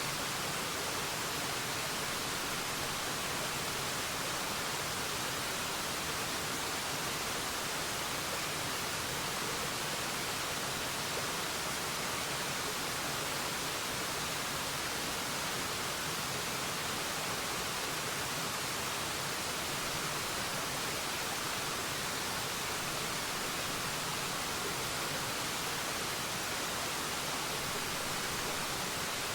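Waterfall: falling water making a steady, even hiss with little low rumble, unchanging throughout.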